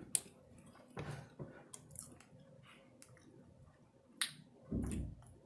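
Close-up eating sounds: chewing with several sharp mouth clicks, and a low thump near the end.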